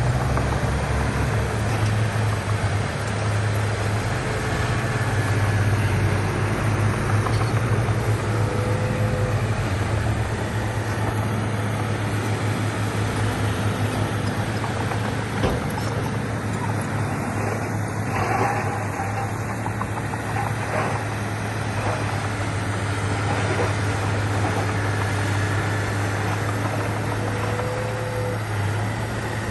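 Heavy diesel engine of earthmoving machinery running steadily with a deep hum, with a few faint knocks partway through.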